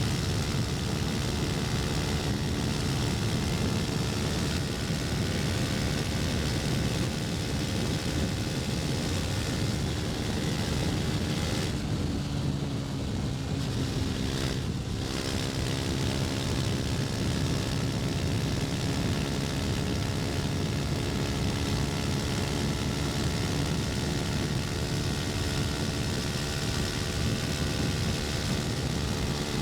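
KTM Duke 250's single-cylinder four-stroke engine running under way with wind noise. A little past the middle the revs dip briefly and then pick up again.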